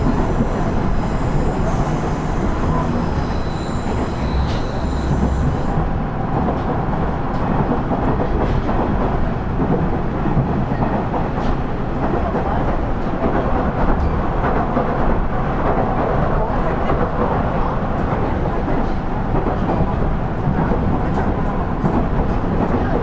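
KiHa 110-series diesel railcar (KiHa 112) running along the line: a steady mix of diesel engine drone and wheels rolling over rail joints. A faint high squeal sits over it for the first six seconds or so.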